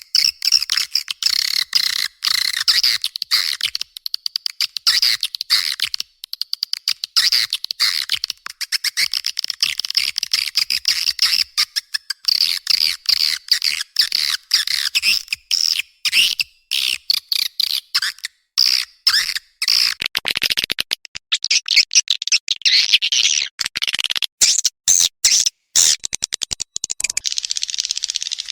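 Swiftlets calling: a dense, rapid, high-pitched twittering and chattering of many short chirps. This is a swiftlet call-lure track of the kind played to draw swiftlets into a nesting house.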